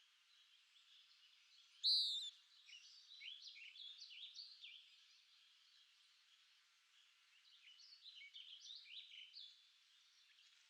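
Birds singing: one loud call about two seconds in, followed by two runs of quick chirps, over a faint steady background hiss.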